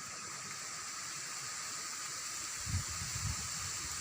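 Rain falling steadily, a constant hiss, with a few low thumps a little under three seconds in.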